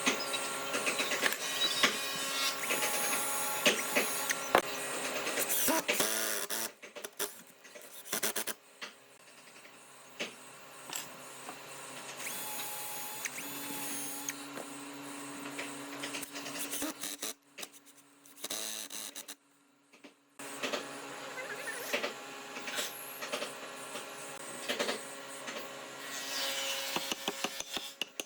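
Workshop tool noise: a small motor whirring with clicks and scraping, heard in several short segments with abrupt cuts between them.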